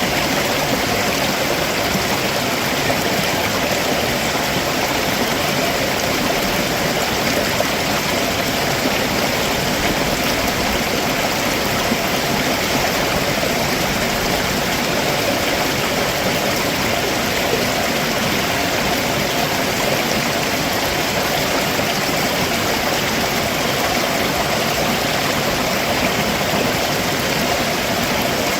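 Stream water running over rocks below a waterfall, a steady, unbroken rushing and babbling.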